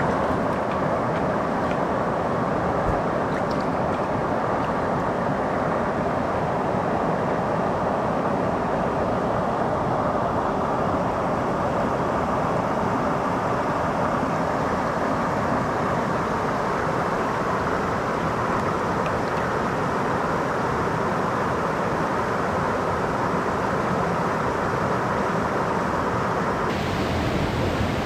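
Mountain stream water rushing steadily over rocks, as a constant even noise.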